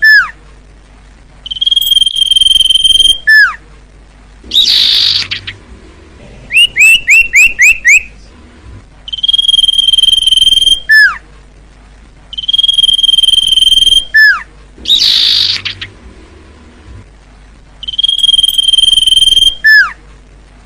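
Common iora (cipoh) singing. Its phrase is a long, level whistle that ends in a quick, steeply falling note, repeated four times after the tail of a first one. Between phrases come a raspy churr twice and, near 7 seconds, a fast run of six short rising chirps.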